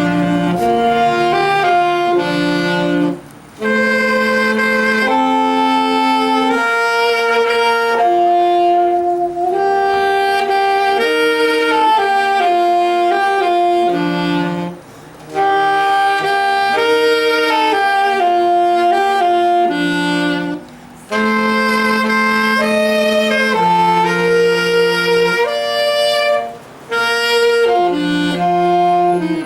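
A small wind ensemble, led by saxophone, playing a slow piece in held chords. The phrases are broken by four short pauses.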